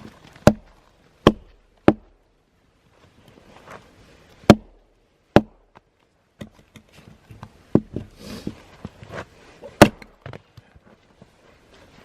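Firewood being chopped and split: a series of about seven sharp, unevenly spaced blade strikes into a big, knotty log, with the loudest about four and a half seconds in and near the end.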